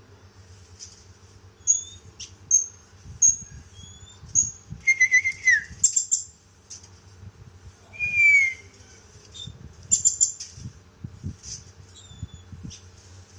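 Pet songbird chirping: short, high chirps repeated every second or so, with two louder, lower whistled notes that slide downward about five and eight seconds in.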